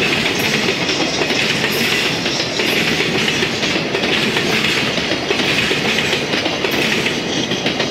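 Container flatcars of a freight train rolling past at speed: a steady, loud clatter of wheels over the rails, with brighter clacks coming every second or so as wheelsets cross rail joints.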